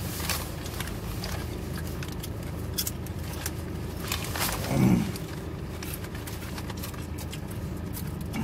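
A man chewing food close to the microphone, with small clicking mouth sounds throughout, over a steady low hum inside a parked car's cabin. A short voiced sound comes a little under five seconds in.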